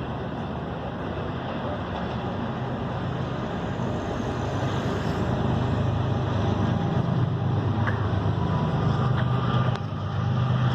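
A vehicle running steadily: a continuous low hum with road or rail noise that grows slightly louder and dips briefly near the end.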